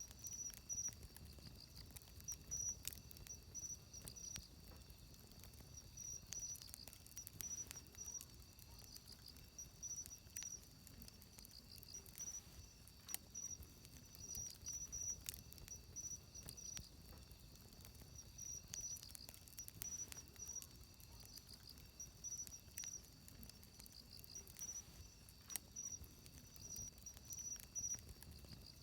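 Wood fire crackling, with sharp pops and snaps every second or so, over insects chirping in short, evenly repeated high trills.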